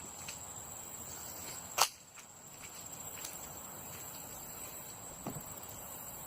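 Crickets chirring steadily in a single high, continuous tone, with one sharp click a little under two seconds in and a couple of faint knocks later.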